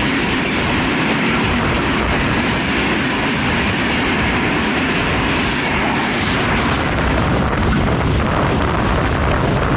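Train passing close by on the rails: a loud, steady rush of wheels on track. About two-thirds of the way through the high hiss thins out and a low rumble grows.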